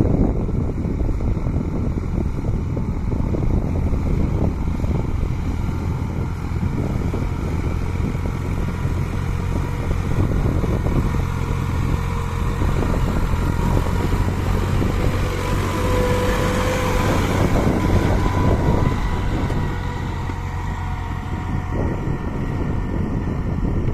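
Tractor engine running steadily under load while pulling a disc plough, with a short higher-pitched tone about two-thirds of the way through.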